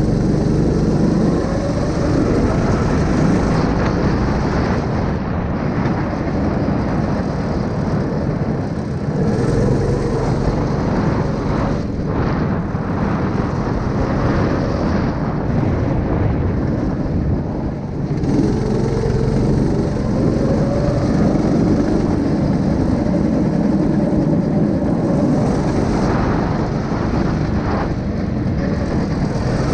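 A 9 hp engine running loud and continuously, its note changing a few times.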